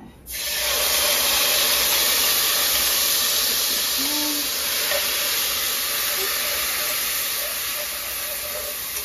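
Food tipped into a pan of hot oil, sizzling loudly. The hiss bursts in suddenly just after the start, holds steady and slowly eases off.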